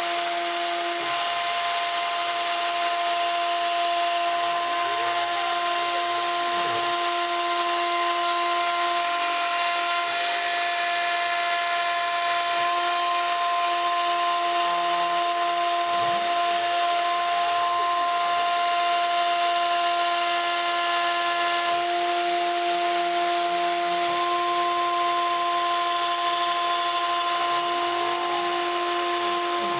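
A Bosch router spindle on a homemade CNC machine runs at high speed as a quarter-inch O-flute endmill mills aluminium, giving a steady high whine over a hiss. Stepper motors add whines that rise and fall in pitch as the axes speed up and slow down, every ten seconds or so.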